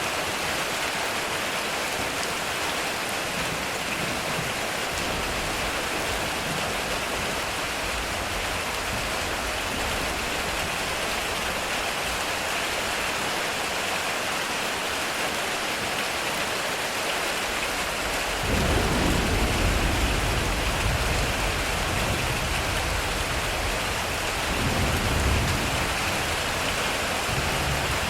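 Heavy rain drumming steadily on a metal roof, with a deep rumble of thunder rolling in suddenly about two-thirds of the way through and swelling again a few seconds later.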